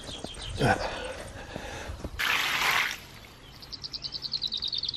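Outdoor birdsong: a rapid high trill of about ten notes a second that starts about three and a half seconds in, after a short burst of hiss about two seconds in.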